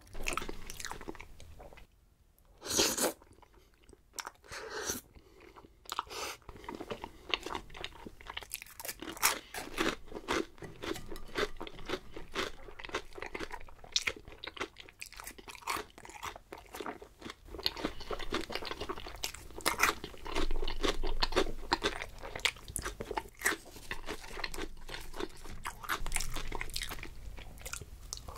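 Close-miked chewing and crunching of crunchy food, many separate crisp bites and chews, denser and steadier from about a third of the way in.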